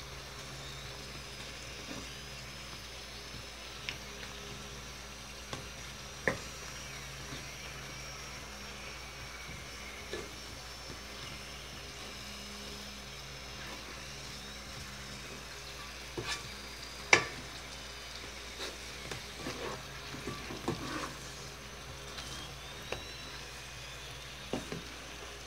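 Fried sweet potato slices sizzling in caramelized sugar in a wok, stirred with a wooden spatula that scrapes and knocks against the pan now and then. The loudest knock comes about two-thirds of the way through.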